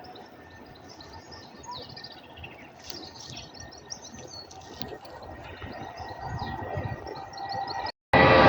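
Small birds chirping and twittering over a faint low rumble of airport engine noise, which grows louder toward the end. Near the end the sound cuts out briefly, then loud aircraft engine noise starts.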